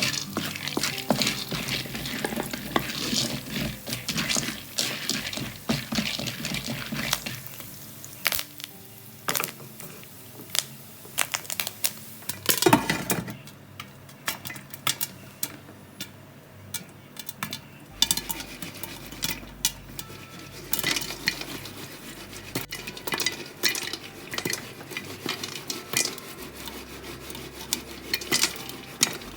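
Utensil stirring and clinking in a stainless-steel electric frying pan, with food sizzling and many sharp clicks throughout.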